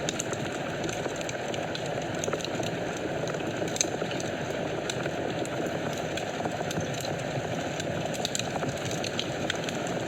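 Wood fire burning in a fireplace: a steady low rush of flames with frequent small, sharp crackles and pops, one louder pop about four seconds in.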